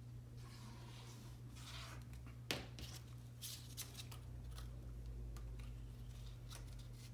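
Paper and cardstock pieces being handled: soft rustles and a few light taps, the sharpest about two and a half seconds in, over a steady low hum.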